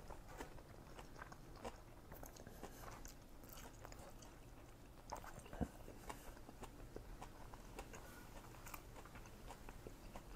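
A man chewing a mouthful of Vietnamese-style fresh spring roll, a faint run of soft crunches and wet mouth clicks, with one louder click about five and a half seconds in.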